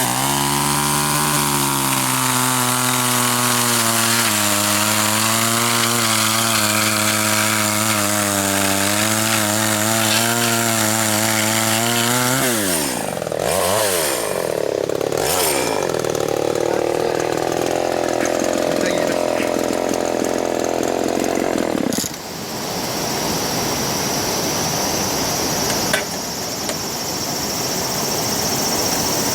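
A two-stroke chainsaw runs at high revs with a steady, slightly wavering note. About 12 seconds in its revs drop and swing up and down as it cuts into wood, and the sound cuts off suddenly around two-thirds of the way through. The saw seems short of power, which the owner puts down to the engine probably not being warmed up yet.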